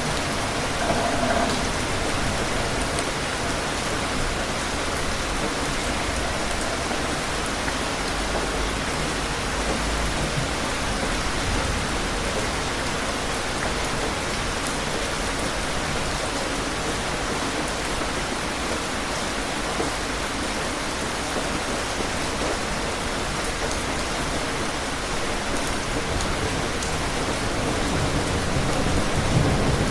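Steady, heavy rain falling on a surface, an even hiss of many drops. A low rumble swells near the end.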